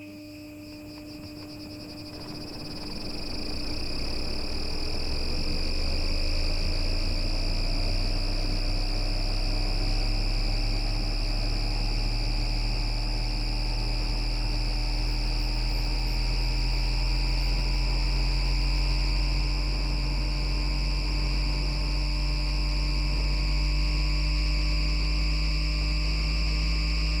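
Bombardier Flexity Outlook tram's MITRAC IGBT VVVF inverter and traction motors accelerating: a motor whine rises steeply from about two seconds in, then more and more slowly, over steady high inverter tones, while a low running rumble builds in the first few seconds and then holds.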